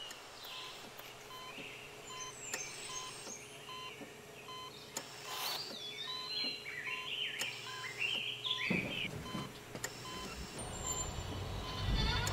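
Woodland birdsong: many small birds chirping and whistling with quick rising and falling notes, over a faint steady tone and a regular soft beeping. A low rumble comes in about nine seconds in as the birdsong thins out.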